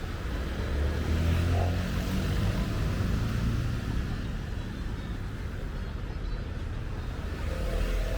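City street traffic: a motor vehicle's engine rumbles past close by, loudest a second or two in, over a steady background of traffic noise.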